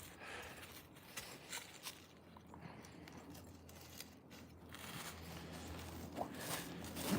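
Faint footsteps crunching on a woodland trail, a scatter of irregular small crackles.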